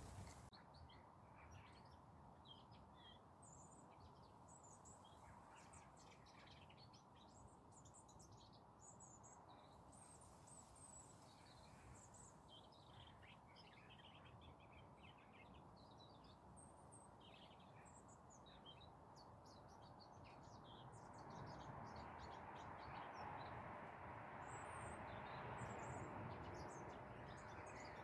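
Small wild birds chirping faintly, many short high calls overlapping throughout. About three-quarters of the way through, a rushing noise swells up and becomes the loudest sound, with the chirps carrying on over it.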